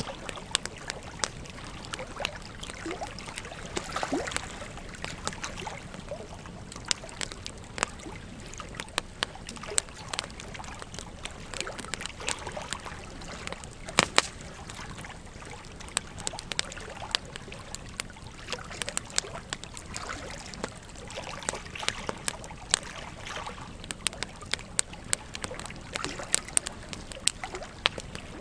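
Wood fire crackling, with frequent irregular pops and snaps over the steady rush of a river; the sharpest crack comes about halfway through.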